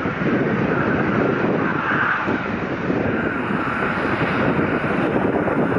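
Boeing 767-400ER's two General Electric CF6 turbofan engines at takeoff power, a steady, even jet engine noise.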